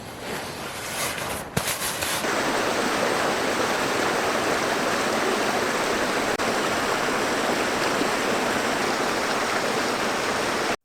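Mountain stream water rushing steadily over rocks, a loud, even wash of noise that comes in about two seconds in after a few brief rustles and cuts off suddenly near the end.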